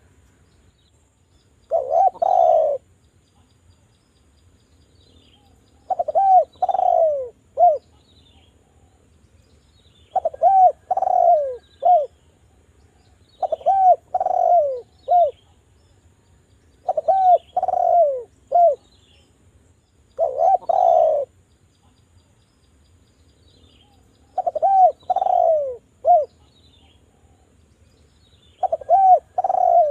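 Derkuku (island collared dove) cooing: short phrases of a few rounded coo notes, each about a second long, repeated about every four seconds. This is the call played as a lure to get other derkuku to answer and sing.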